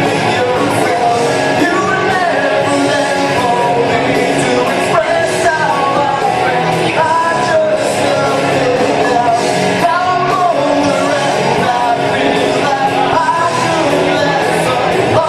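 A song with a voice singing a melody over instrumental accompaniment, playing steadily.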